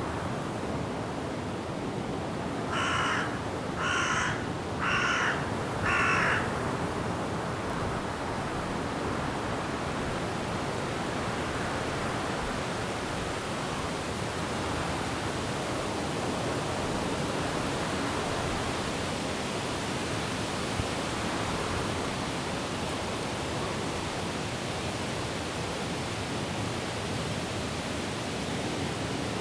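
A crow cawing four times, about a second apart, over a steady rush of wind in the trees and rain.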